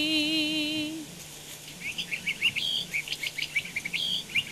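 A woman's held, wavering sung note ends about a second in, then small birds chirp and twitter in quick runs of short calls.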